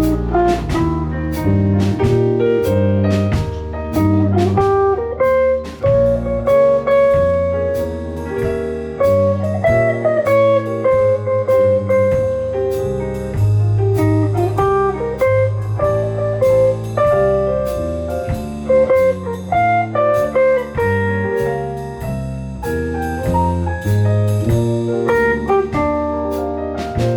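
Live instrumental music in a jazz-blues style, led by guitar over a walking bass line with regular percussive strokes.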